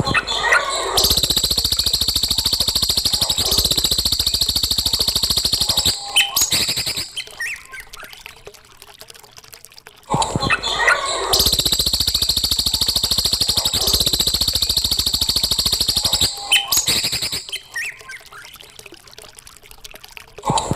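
Recorded songbird calls played as a training track: a few short chirps, then about a second in a loud, very fast high trill that runs about five seconds before falling quieter. The same sequence repeats about ten seconds later.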